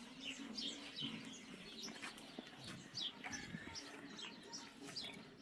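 Small birds chirping faintly in the background, short falling chirps about every half second.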